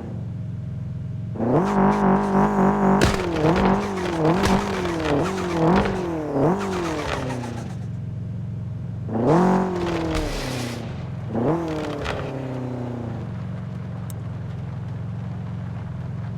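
A vehicle engine idling and being revved: a run of quick throttle blips, then two longer revs that fall back to a steady idle.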